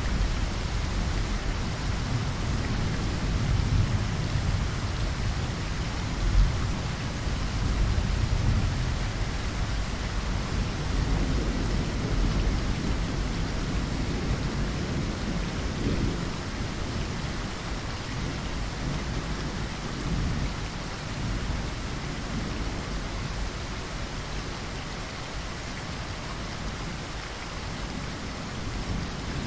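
Steady rain falling, with low rolling rumbles of thunder that swell through the first half and ease off toward the end.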